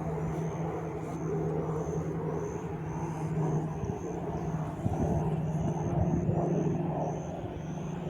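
A steady engine hum, with a short high chirp repeating about twice a second over it.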